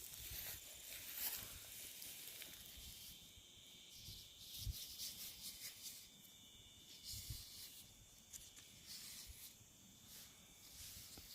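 Footsteps rustling and crunching through dry leaf litter on a woodland walk, faint and irregular, with a few soft thuds. Under them runs a steady high insect drone.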